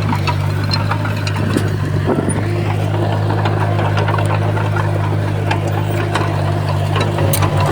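Bulldozer's diesel engine running steadily under work, with frequent sharp clanks and clicks from its tracks and the stone it pushes.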